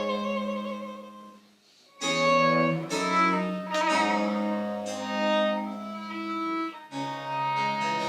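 Baroque chamber ensemble playing French Baroque music: a bowed string melody over plucked accompaniment. A phrase ends and dies away in the first second or two, then after a short pause a new phrase begins, with another fresh entry near the end.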